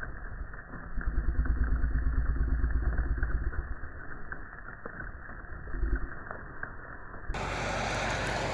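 Vehicle engine running with a low, pulsing rumble. A little after 7 s this gives way to a steady hiss.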